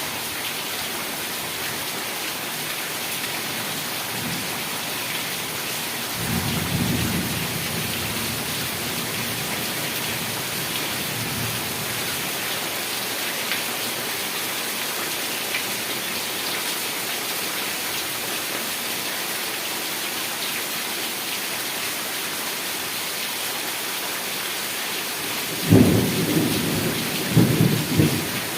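Heavy rain falling steadily, with a low roll of thunder a few seconds in and a sharper, louder thunderclap near the end that rumbles on.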